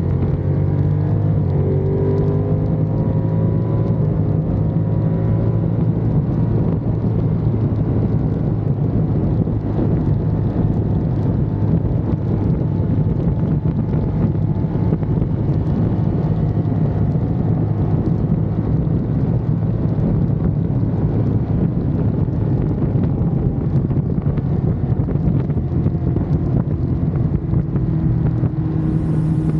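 Ducati Monster's L-twin engine running while the motorcycle is ridden, a steady drone whose pitch shifts in the first few seconds and then holds.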